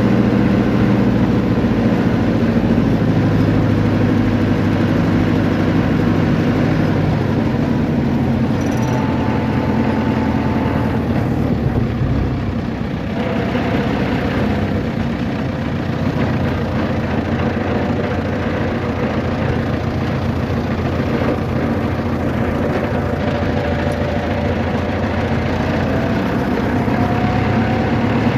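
A motor vehicle's engine runs steadily as a low, even hum with road or wind noise, with no marked revving or stops.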